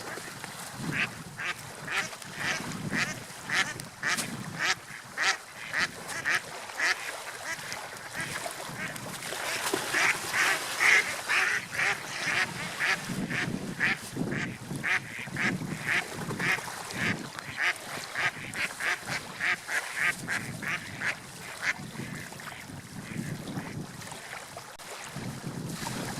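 Gulls calling in a long run of short, harsh repeated calls, about two a second, which thin out near the end, over a low, swelling wash of waves.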